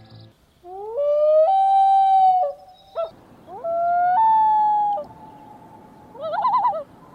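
Loon calling: two long wails, each sliding up and then held with a step up in pitch, followed near the end by a quavering tremolo call.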